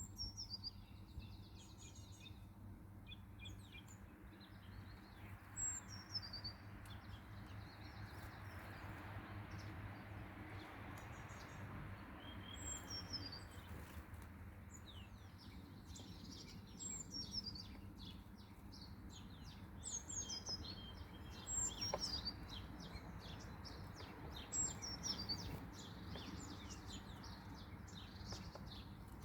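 Small birds chirping, with many short, high, falling notes throughout that come thicker in the second half, over a steady low background noise.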